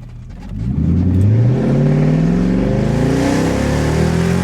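Lexus SC400's 4.0-litre V8 through a newly fitted aftermarket exhaust under a hard acceleration pull. The engine note climbs steadily in pitch from about half a second in.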